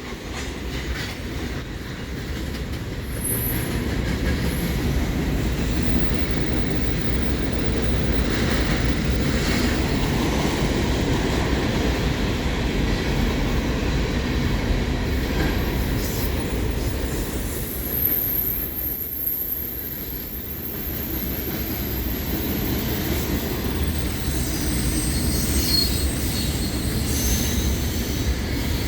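CN manifest freight train rolling past: a steady low rumble of freight cars on the rails, with a thin high-pitched wheel squeal coming in about eighteen seconds in and again near the end.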